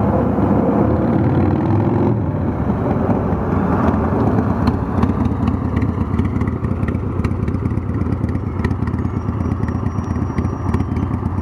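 Harley-Davidson Evolution (Evo) 1340 cc air-cooled V-twin on a 1992 FXDB running under way. About two seconds in the engine note drops, then it runs on at a steady lower pitch.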